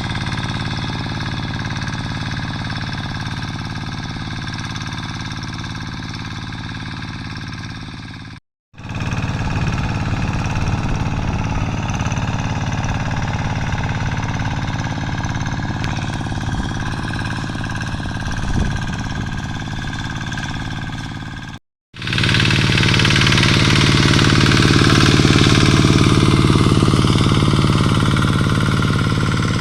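Quick G3000 two-wheel hand tractor's single-cylinder diesel engine running steadily with a knocking beat while plowing. The sound cuts out abruptly twice for a moment and comes back a little louder after the second break.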